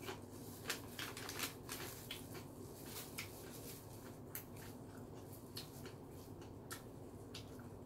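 Close-up chewing of seafood pizza: irregular wet mouth clicks and smacks, thicker in the first few seconds and then thinning out, over a faint steady hum.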